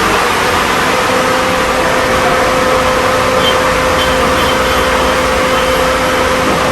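A car running steadily: an even noise with a constant hum and no change in pitch.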